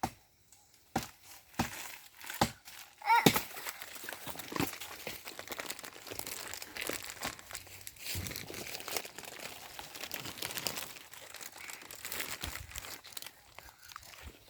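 Dry sticks, branches and leaf litter crunching and crackling as firewood is gathered. A few separate sharp snaps and knocks come in the first seconds, then a steady dense crackle of small clicks.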